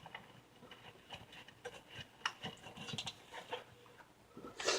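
Faint, irregular light metallic clicks and scrapes of a wrench working loose a half-inch oil-pan bolt on a TH350 automatic transmission.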